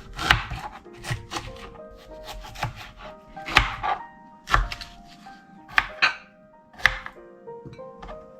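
Knife cutting an Asian pear on a cutting board: several sharp, irregularly spaced knocks of the blade hitting the board.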